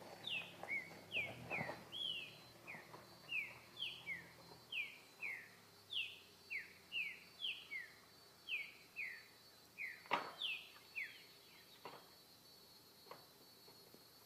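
Green-winged saltator (trinca-ferro) singing a repetitive song of short downslurred whistled notes, about two a second, that stops about eleven seconds in. A sharp click comes about ten seconds in.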